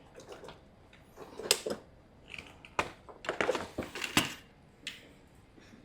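Hard objects being handled: a series of sharp clicks and clatters, a cluster of them in the middle and a last click near the end.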